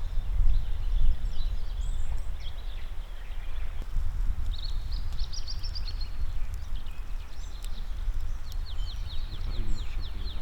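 Small songbird singing high chirping phrases, ending in a fast run of quick downward-sweeping notes near the end, over a steady low rumble.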